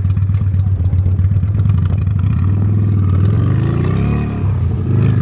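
Honda Steed V-twin motorcycle engine running, then revving up with a rising pitch from about halfway through, dipping briefly near the end.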